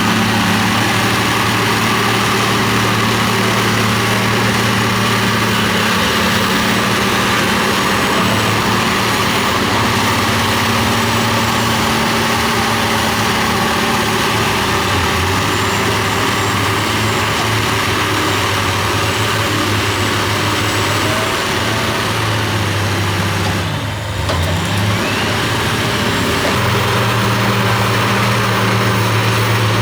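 Heavy diesel engine of earthmoving machinery running steadily under load. About three quarters of the way through, its pitch drops sharply, as if the engine is lugging or being throttled back, and then rises back up to its working speed.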